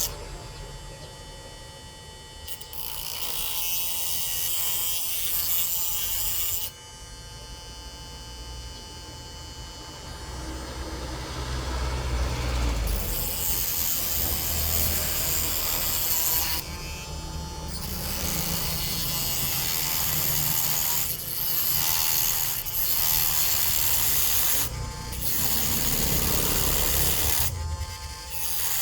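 A small handheld power tool running and working against material, stopping briefly several times.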